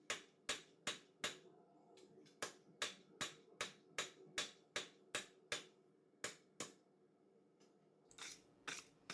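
Hand hammer striking hot 4140 steel bar stock on the anvil, about two or three blows a second in two runs with a brief pause, each blow sharp with a faint ring after it; the hammering stops a little past halfway. Near the end a rougher scrubbing sound starts, a wire brush taking the scale off the steel.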